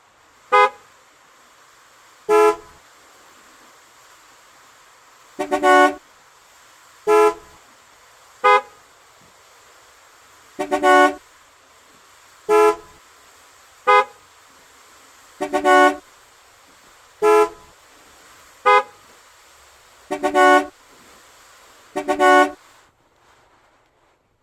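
A vehicle horn honking in short beeps, about thirteen in all and some of them doubled, every second and a half or so over a faint steady hiss.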